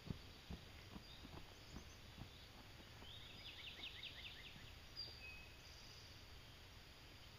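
Near silence with faint bird chirping: a quick run of short high notes about three seconds in and a single brief high note near the five-second mark, over a low rumble and a few soft ticks in the first second or so.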